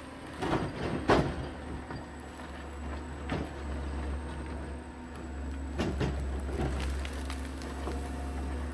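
John Deere 670 motor grader's diesel engine running with a steady low rumble, with several sharp metallic clanks from the machine, the loudest about a second in.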